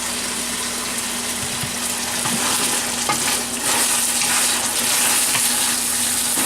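Chicken, peppers and green beans sizzling steadily in a hot wok just after the General Tso sauce has gone in, with the stir-fry being stirred.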